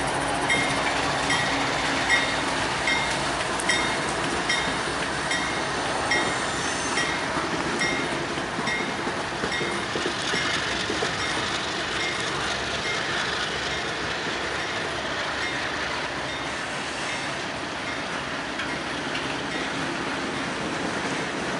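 A train rolling past, its wheels making a steady rumble and clatter on the rails. For about the first eight seconds, short high pings repeat about twice a second.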